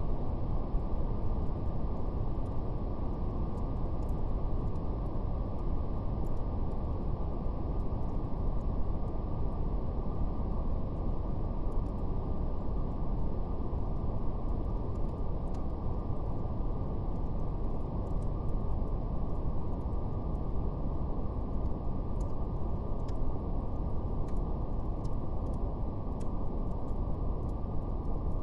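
Steady brown noise: a deep, even rushing hiss with no highs, under faint scattered crackles of a fire.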